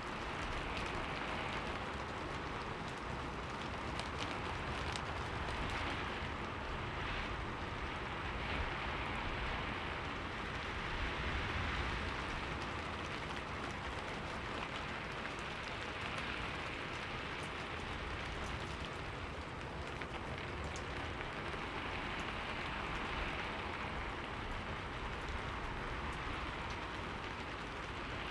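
Steady rain falling on a window and its surroundings, a continuous hiss with fine scattered drop ticks.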